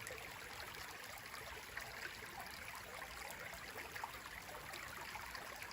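Small stream running over rocks and fallen branches: a faint, steady wash of water.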